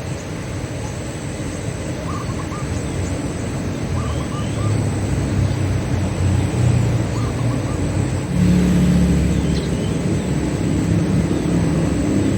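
A steady low rumble of a motor vehicle's engine, swelling about eight seconds in. Faint short coos of zebra doves (perkutut) recur every couple of seconds under it.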